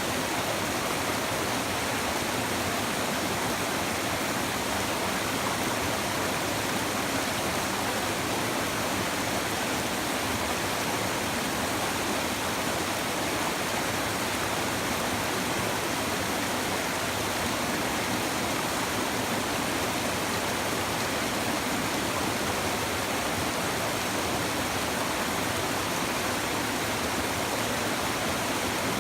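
Shallow river water babbling steadily over stones, an even rushing murmur with no breaks.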